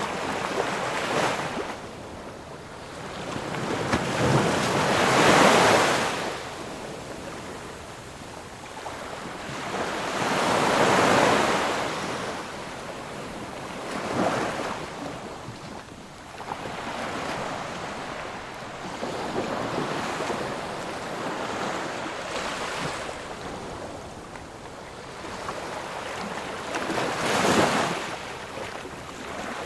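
Ocean surf: waves breaking and washing in, swelling and fading every few seconds, with the biggest surges about five and eleven seconds in and again near the end.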